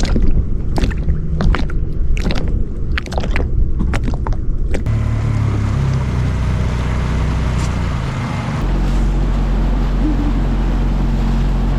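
Small boat under way: a few seconds of sharp knocks and splashes over a low rumble, then a motor running with a steady hum that shifts in pitch about eight and a half seconds in.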